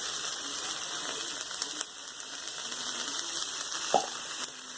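Steady hiss of food cooking, with a short click a little under two seconds in and a sharper knock about four seconds in.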